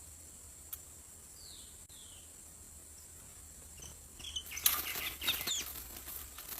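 A small songbird gives two short falling whistled calls, then a louder flurry of rapid wing flaps mixed with chirps for about two seconds near the end.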